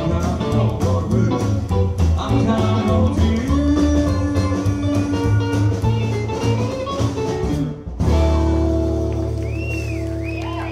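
Live band with electric guitar, bass and drums and a male singer playing the end of a bluesy song. Just before the last few seconds the band stops on a beat and hits a final chord that is held and rings out.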